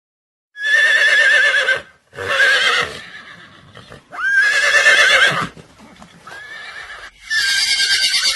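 An animal calling five times, each call a quavering cry of about a second with a wavering pitch; the fourth call is fainter.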